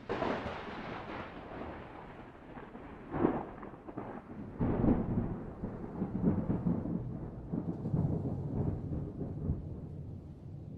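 Thunder: a sudden crash at the start that rolls on into a long low rumble, with further sharp cracks about three seconds in and just under five seconds in.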